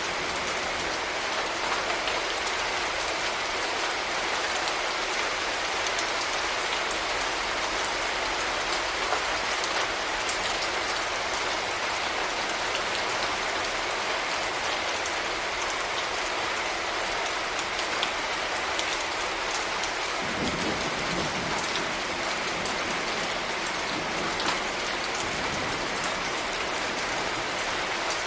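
Steady rain falling on hard urban surfaces, with many close, separate drop hits. About twenty seconds in, a low rumble comes in underneath.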